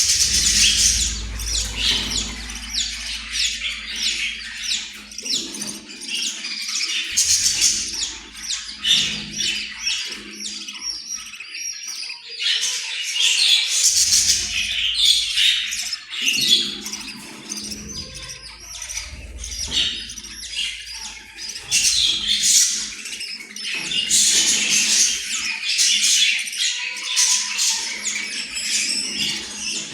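Pet Australian parrot chattering: a continuous stream of rapid, high chirps and squawks, with a low rumble coming and going underneath.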